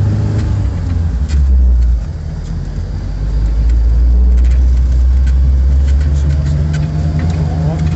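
LuAZ off-roader's VAZ-21083 four-cylinder petrol engine running under load as the vehicle drives, a low drone. It eases off about two seconds in, then builds up again and stays strong.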